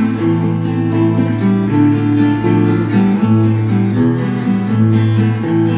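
Acoustic guitar playing an instrumental interlude in a Russian romance: plucked bass notes and chords in a steady, unhurried rhythm.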